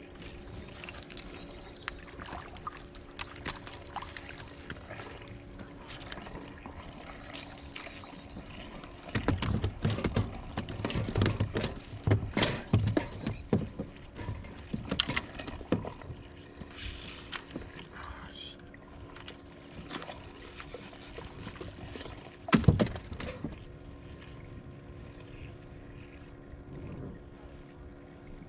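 Water splashing, sloshing and trickling close by, with scattered knocks and a steady low hum underneath. The splashing grows louder and busier about a third of the way in, and there is one loud knock later on.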